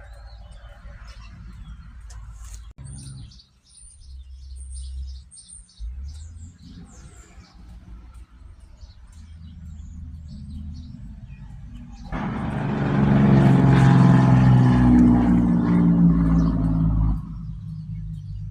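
Small birds chirping in quick, short high notes. About twelve seconds in, a motor vehicle's engine starts up loudly and runs steadily for about five seconds, then drops away. A low rumble runs underneath throughout.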